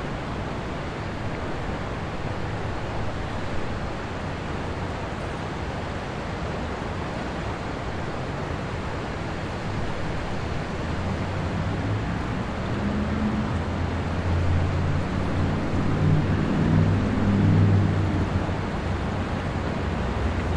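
Fast, shallow river current rushing steadily. A low rumble builds from about halfway in and is loudest near the end.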